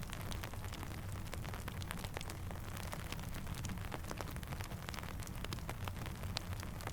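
Steady rain falling alongside a crackling campfire: an even hiss and low rumble with scattered sharp pops and ticks throughout.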